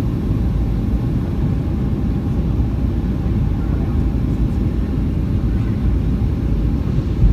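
Steady low rumble of airflow and engines heard inside the cabin of a Boeing 757-200 airliner on its descent, with a brief thump near the end.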